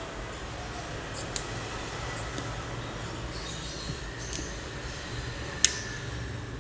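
Sharp plastic clicks from handling the repaired power-strip switch while its contacts are tested with a multimeter, two louder ones about 1.5 and 5.5 seconds in, over a steady low hum.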